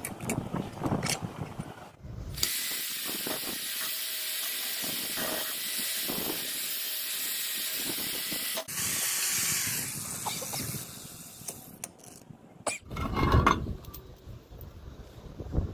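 Steady hissing for about six seconds, then a second, shorter hiss, with short knocks and clatter before and after.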